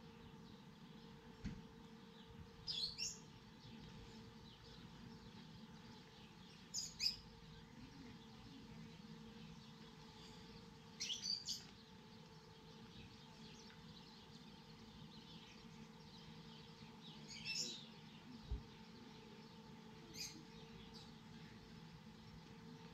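A bird chirping: five short, high calls a few seconds apart, over a faint steady hum.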